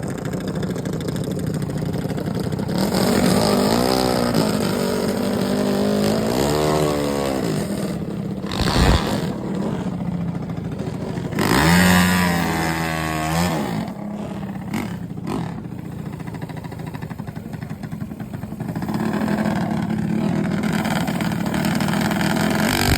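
Mini bike engines revving and racing, the pitch sweeping up and down several times, with a strong run-up about halfway through. A sharp bang is heard about nine seconds in.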